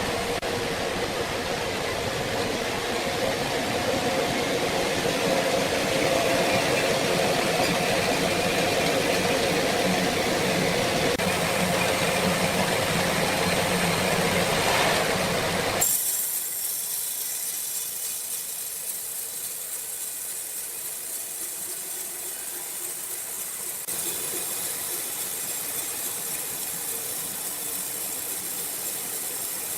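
Sawmill machinery running steadily with a dense mechanical noise. About halfway through it changes abruptly to a quieter, thinner hissing machine sound, which steps up slightly again some eight seconds later.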